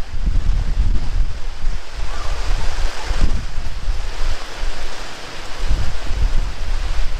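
Heavy rain pouring down in strong wind: a dense, steady hiss of rain, with gusts rumbling on the microphone.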